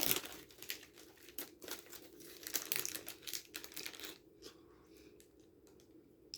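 Plastic candy packaging crinkling and crackling as it is handled, in irregular bursts that thin out and turn faint after about four seconds.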